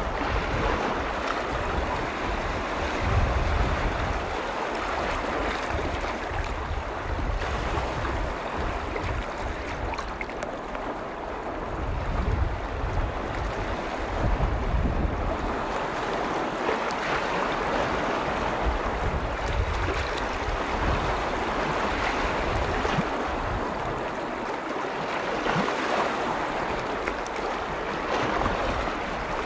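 Lake waves washing and lapping on the shore in a steady, unbroken wash of water. Wind rumbles on the microphone now and then, strongest a few seconds in and again around the middle.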